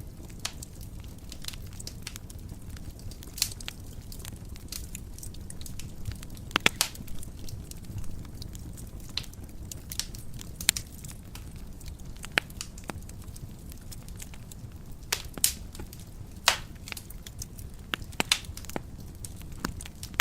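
Wood fire burning in a fireplace: a steady low rumble of flames with irregular sharp crackles and pops, several louder snaps among them.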